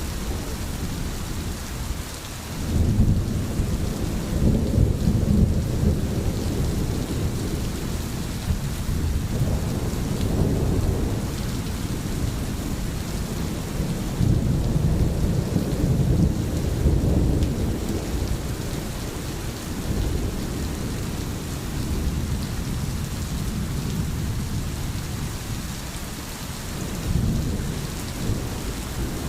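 Steady rain with rolling thunder: deep rumbles swell and fade about three seconds in, again around ten and fifteen seconds in, and briefly near the end.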